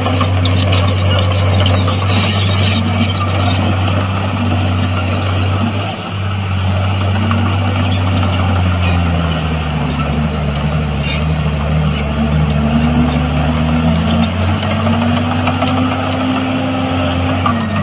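Heavy diesel earthmoving machine running under load: a steady deep engine drone, with a higher tone that swells up and falls back in slow arcs every few seconds.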